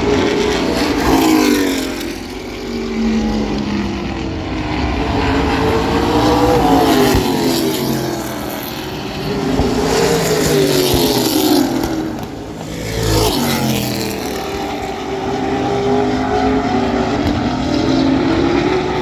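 A pack of race trucks' engines running hard around the oval. The engine pitch climbs and falls in repeating waves a few seconds apart as the trucks pass, accelerating and backing off into the turns.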